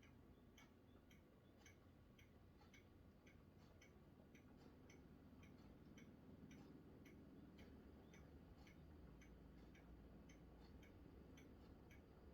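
Near silence: faint, regular ticking about three times a second, over a low rumble that swells slightly in the second half.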